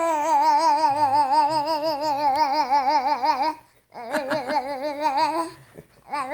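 A young child's voice making long, wavering hum-like tones with a steady vibrato. One tone is held about three and a half seconds, a shorter one follows after a brief break, and another starts near the end.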